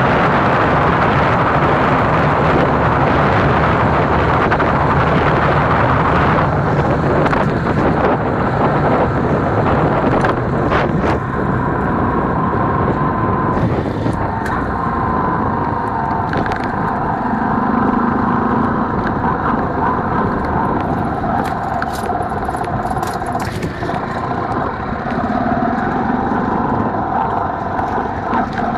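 Motorcycle engine running on the move, with wind rushing over the microphone. The wind is heaviest for the first six seconds or so; after that the engine's steady drone comes through more clearly, with scattered short clicks.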